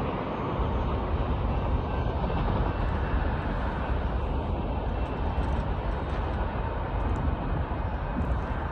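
Loaded limestone hopper cars of a Union Pacific freight train rolling past, a steady rumble of wheels on rail.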